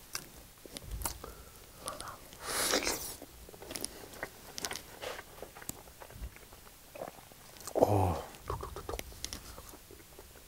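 Close-up biting and chewing of a pan-fried whole block of Spam, with small clicky mouth sounds throughout and a breathy rush about two and a half seconds in. About eight seconds in comes a short voiced sound falling in pitch, the loudest moment.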